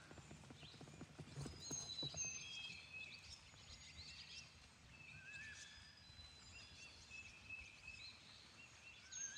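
Several songbirds singing faintly, with short high chirps and whistles overlapping throughout. A few soft knocks sound in the first two seconds.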